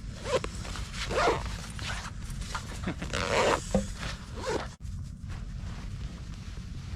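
An excited pet dog playing, making a few short vocal sounds in the first half, the longest about three seconds in. A steady low rumble runs underneath.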